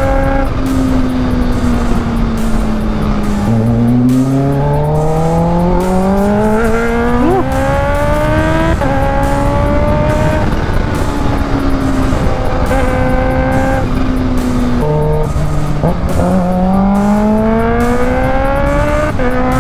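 Kawasaki Ninja H2's supercharged inline-four engine heard on board under way. Its revs fall for the first few seconds, then climb steeply under hard acceleration, with a sharp drop about nine seconds in at a gear change. It then eases off and pulls up again in the last few seconds, over a steady rush of wind.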